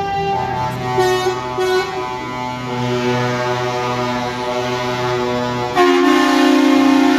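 Several truck air horns sounding at once, long overlapping blasts with short toots about one and two seconds in; a louder horn chord cuts in near the end.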